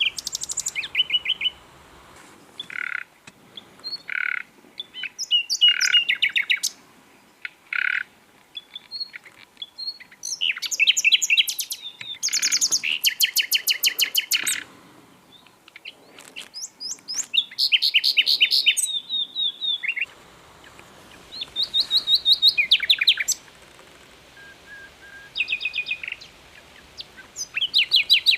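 Common nightingale singing: a string of separate phrases a second or two apart, mixing fast runs of rapidly repeated notes with single pure whistled notes.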